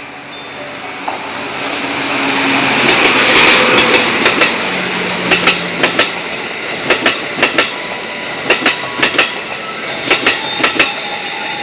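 A train passing close by. Its running noise builds over the first few seconds, then the wheels clack over the rail joints in quick pairs, about one pair a second.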